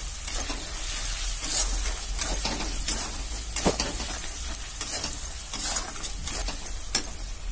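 Onion and spice masala sizzling in hot oil in a pan while a metal spatula stirs it, scraping against the pan in irregular strokes over a steady frying hiss.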